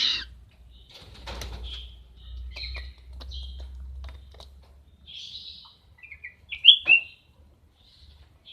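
An owl making short high chirps and hissy squeaks while it deals with a catfish. The two sharp calls a little before the end are the loudest.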